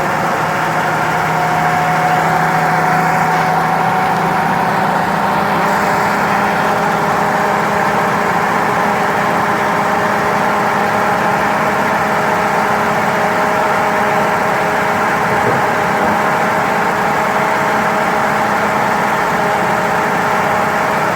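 1978 Chevrolet Nova's carbureted engine idling steadily at a fast idle right after a cold start, the electric choke holding it on the high-idle step.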